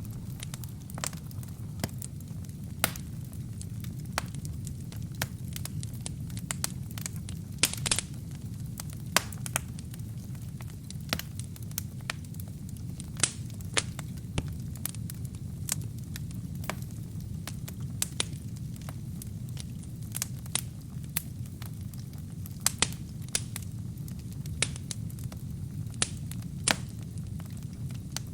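Wood fire burning in a fireplace: a steady low rumble of flames with frequent sharp, irregular crackles and pops from the burning wood and kindling.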